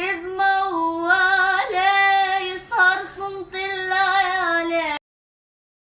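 A high female voice singing an Arabic song unaccompanied, holding long, wavering, ornamented notes. It cuts off abruptly about five seconds in.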